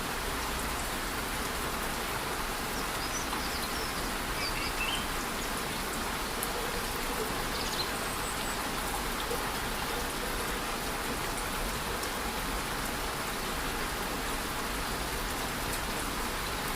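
Steady rush of a rainforest waterfall mixed with light rain, an even hiss of falling water. A few faint bird chirps come through in the first half.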